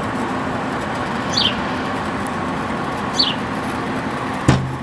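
Window air conditioner running with a steady whooshing hum, while a small bird gives two short, high chirps that fall in pitch. Near the end there is one sharp knock.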